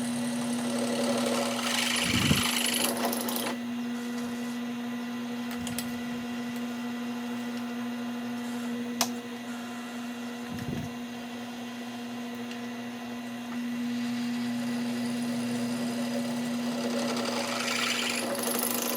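Electric drill running steadily while boring a hole, its motor hum getting louder and rougher about two seconds in and again near the end, with a single sharp click near the middle.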